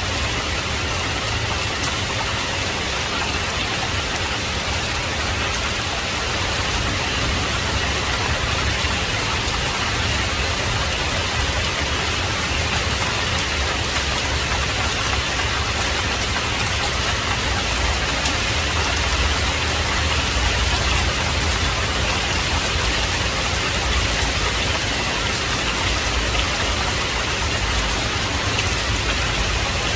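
Heavy rain pouring steadily, a dense even hiss of drops, with a low rumble underneath that swells slightly about two-thirds of the way through.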